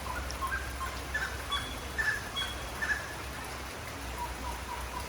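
Short chirping animal calls repeating irregularly, some higher-pitched than others, over a steady low hum.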